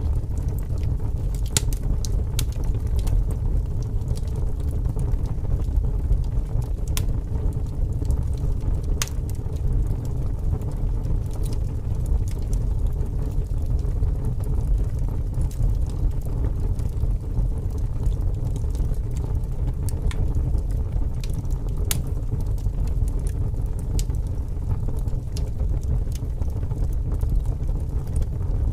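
Wood fire crackling with scattered sharp pops over a steady low rumble of strong wind.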